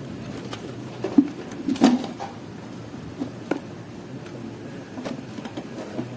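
A few light clicks and knocks from handling a vacuum-cleaner motor's wiring and parts, the loudest about two seconds in, over a steady low background noise.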